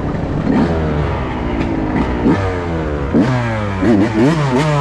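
Dirt bike engine idling and being revved in quick repeated blips, its pitch jumping up and falling back several times, with a fast run of blips near the end.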